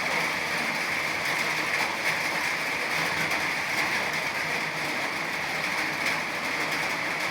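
Rain falling steadily: a dense, even hiss with faint scattered patter of drops.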